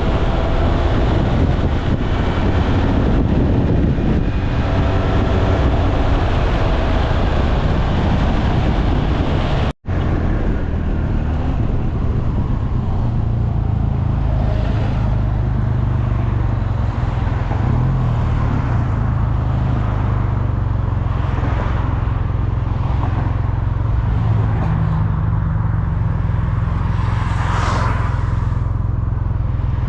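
A SYM Maxsym TL 508 scooter being ridden: a steady rumble of engine, road and wind noise on the microphone. It drops out for an instant about ten seconds in.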